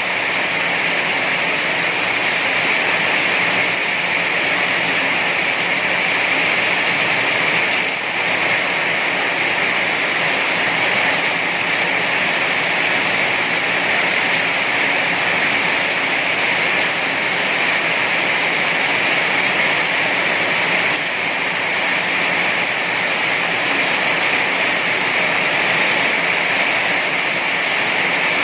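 Heavy rain falling as a loud, steady, even hiss.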